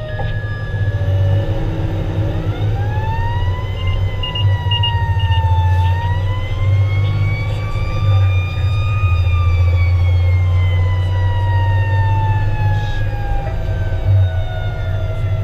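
Fire engine's siren wailing over the loud low rumble of the truck's engine and road noise. The siren winds up a couple of seconds in, dips, climbs to a peak about halfway through, then slowly falls away, with a few short high beeps a little before it dips.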